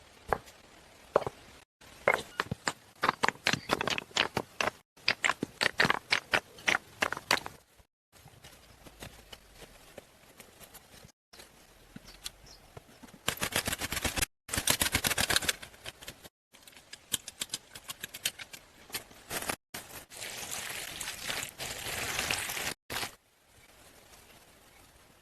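Quick runs of sharp knocks and cracks, alternating with stretches of scraping noise; the sound breaks off abruptly every few seconds.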